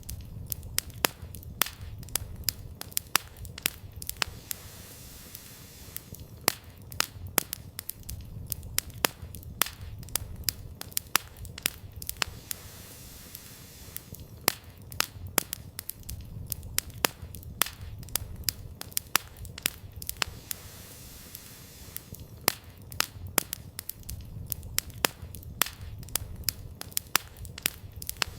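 Wood campfire burning, with quick irregular crackles and sharp pops over a low steady rumble of flames.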